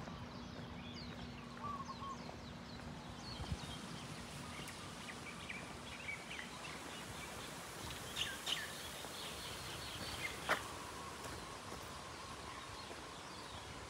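Birds chirping under the trees, scattered short calls over a steady background hiss of outdoor ambience.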